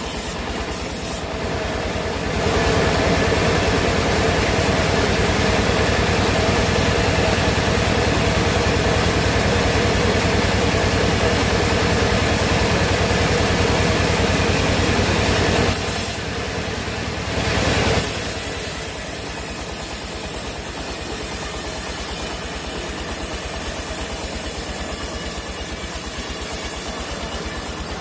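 Sawmill machinery running steadily. It gets louder from about two seconds in until about sixteen seconds, swells again briefly, then settles back to a steady hum.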